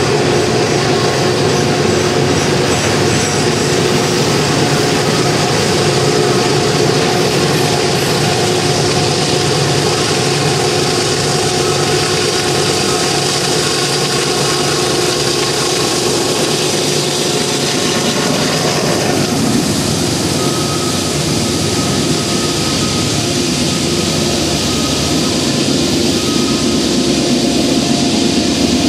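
Loaded coal train rolling past: the steady rumble of the coal cars on the rails, then the Union Pacific diesel locomotive pushing at the rear goes by about two-thirds in, its engine working hard on the upgrade.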